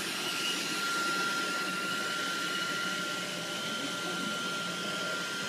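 Steady background hiss with a thin, high, unchanging whine, the kind of constant noise a fan or household appliance makes.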